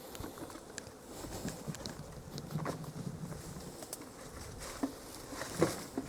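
Honeybee swarm buzzing: a low, steady hum that is clearest around the middle, with scattered light clicks and knocks.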